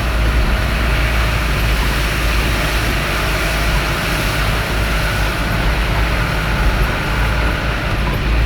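Heavy rain making a steady hiss over a constant low rumble of a moving vehicle.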